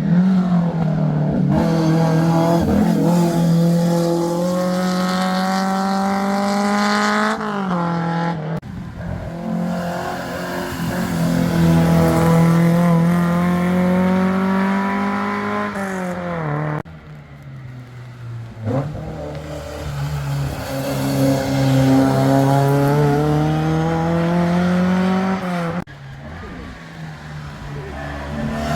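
Historic rally cars driven hard on a stage, one after another. Each engine's pitch climbs steadily under acceleration and then drops quickly, about four times, with abrupt breaks between cars.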